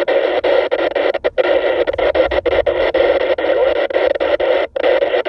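Static hiss from a TYT TH-9000D VHF FM transceiver tuned to a weak, distant NOAA Weather Radio signal, chopped by many short dropouts as the signal fades, the deepest near the end.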